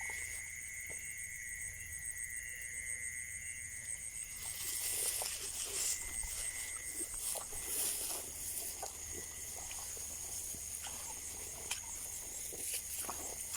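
Steady outdoor animal chorus, typical of insects and frogs in a wet rural field: a continuous high buzz with a faster pulsing trill above it. Scattered small clicks and rustles sound through it.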